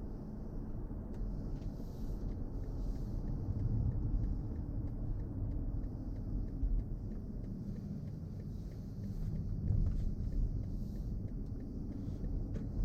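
Steady low road and tyre rumble heard from inside a BMW i4 M50, an electric car, while it drives along.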